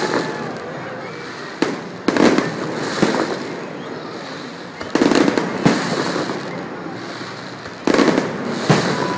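Aerial fireworks shells bursting overhead: about seven sharp booms, several in quick pairs, each followed by a short rumble.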